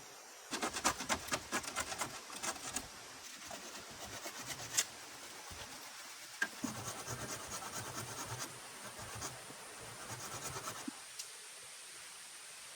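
Repeated rasping, scraping strokes in quick irregular runs, stopping about eleven seconds in.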